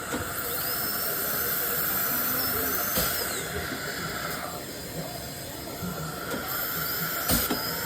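High-speed dental handpiece whining as it runs during a tooth preparation. It spins down about 3 s in and starts again about 6.5 s in, over a steady hiss from the water spray and suction.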